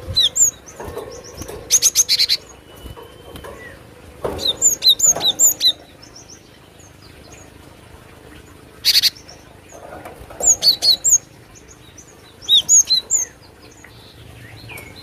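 Cinereous tit (glatik batu) giving repeated short bursts of high, sharp chirps, about six bursts with pauses between, two of them harsh buzzy rattles.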